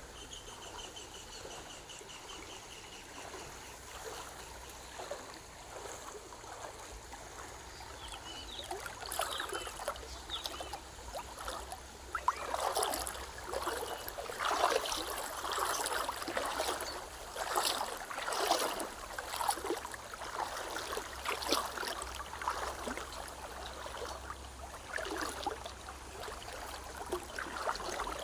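River water trickling and splashing in irregular little surges, which grow busier and louder about a third of the way in.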